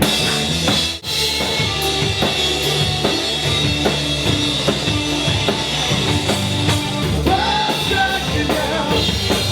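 Live rock band playing a song on drum kit, electric guitars and bass guitar, with a momentary break in the sound about a second in.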